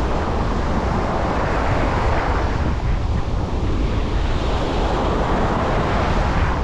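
Sea waves washing onto a beach, the surf swelling and easing, with wind buffeting the microphone in a steady low rumble.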